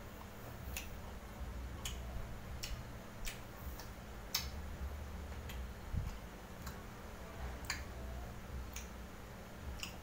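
A person chewing food with the mouth closed, with sharp wet mouth clicks and smacks about once a second at uneven intervals, over a faint low hum.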